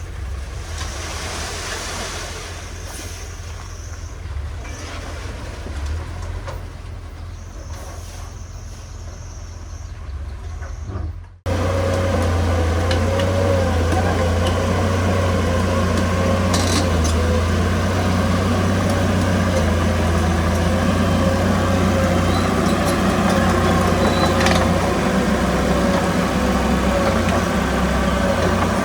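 Heavy diesel earthmoving machinery running, with a higher hiss in the first part. After an abrupt cut about eleven seconds in, a louder, steady heavy diesel engine with a deep hum and a faint wavering whine.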